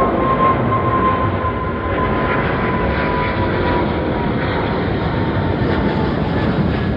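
Airliner engines running loud and steady as an aircraft passes, with a thin whine that slowly falls in pitch.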